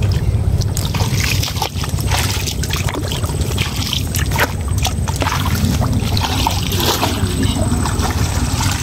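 Water trickling and sloshing, with scattered small knocks and clicks of handling, over a steady low rumble.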